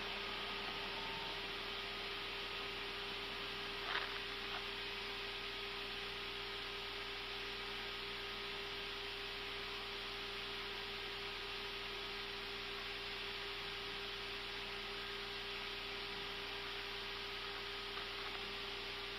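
Airbus A320 flight deck in the climb after takeoff: a steady hiss of airflow and ventilation with a steady hum underneath. A brief click about four seconds in.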